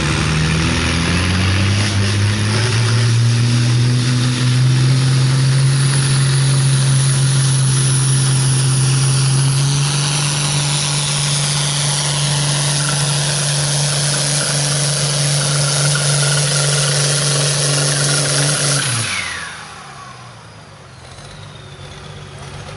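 Diesel engine of a John Deere farm stock pulling tractor at full throttle under load, pulling the sled. Its pitch climbs over the first couple of seconds and holds steady, then falls away abruptly about nineteen seconds in as the throttle is shut at the end of the pull.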